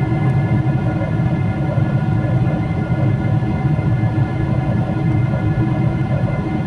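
Steady interior rumble of a moving vehicle, with several faint steady tones above it and no change in level.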